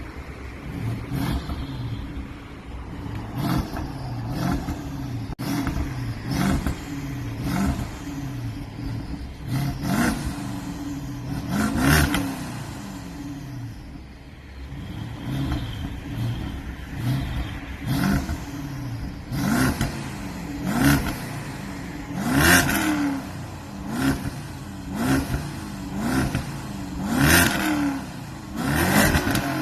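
BMW F10 550i's 4.4-litre twin-turbo V8 idling and being revved in repeated short blips through its exhaust. Each rev rises and falls in pitch within about a second. Some come in quick clusters, and the loudest ones are near the middle and the end.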